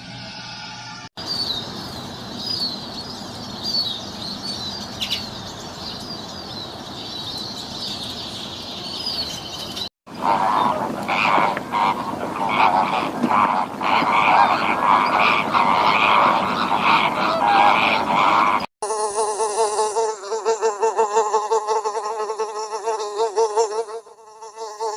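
Animal sounds in three short clips back to back. First come repeated high chirps, then a dense, noisy chorus of calls, then a fast buzzing drone.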